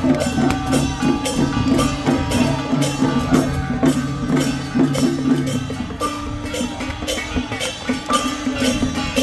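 Traditional Taiwanese temple procession music: dense, fast percussion with wood-block-like strikes and drums over a held melody line.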